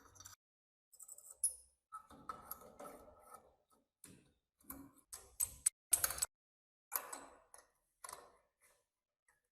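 Hand work on small metal parts: irregular clicks, clinks and short scrapes in bursts with silence between, the sharpest clicks about a second and a half in and about six seconds in.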